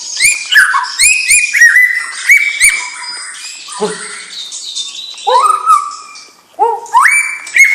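White-rumped shama (murai batu) singing: a fast run of varied whistled phrases with sharp upward slurs and clicking notes, a brief pause about six and a half seconds in, then more phrases.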